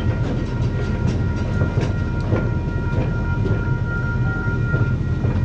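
Park ride-on miniature train running along its track, heard from aboard: a steady low rumble with repeated clicks from the wheels over the rails and a faint steady high squeal.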